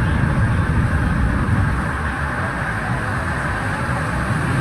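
Swollen floodwater rushing steadily: a loud, unbroken, deep rush of water noise.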